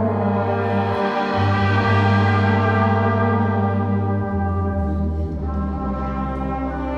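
Wind band playing full held chords, brass to the fore, over a bass line that moves to a new note a few times.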